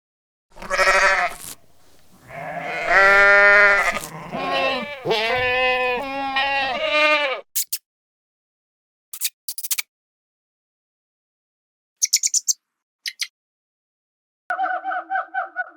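A series of loud, wavering bleating cries from an animal. They are followed by a few short, high clicks, and near the end a quick pulsed call begins.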